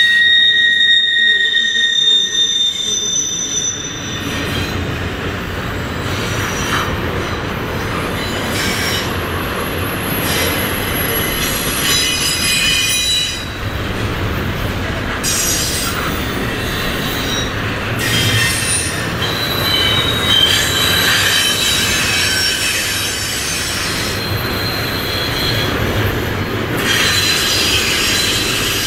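Double-stack intermodal container well cars of a freight train rolling past on a curve: a steady rumble of steel wheels on rail, with high-pitched wheel squeal that comes and goes, loudest near the start.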